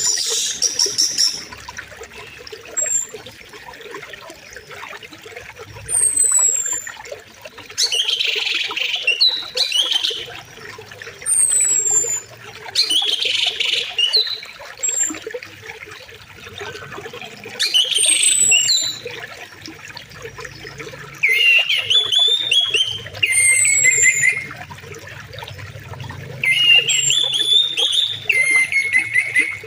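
River water flowing steadily, with several birds calling over it: short high whistles that slide downward every few seconds, loud bursts of chirping, and two longer warbling phrases near the end.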